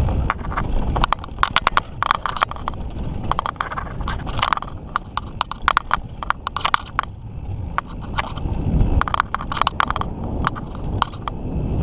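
Mountain bike clattering over a rough trail: irregular bursts of sharp clicks and knocks from the bike's frame and chain, over a low rumble.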